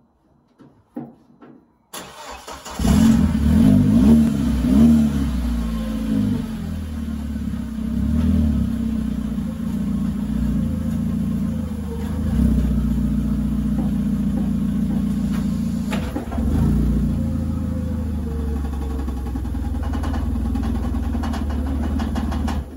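Audi 1.8-litre 20-valve turbocharged four-cylinder engine in a mid-engined Triumph Spitfire: the starter cranks briefly, the engine catches a little under three seconds in and is blipped a few times, then it runs steadily. The sound cuts off suddenly near the end.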